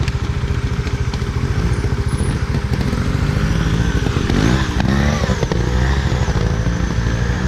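Motorcycle engine running close to the microphone, a steady rapid low beat, its pitch rising and falling briefly about halfway through.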